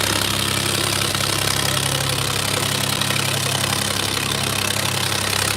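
Tractor diesel engine running steadily, with a constant low hum over a haze of noise.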